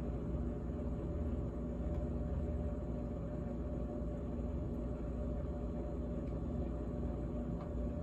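GE GTH18XCTZRBB refrigerator running with a steady, even hum made of several low tones.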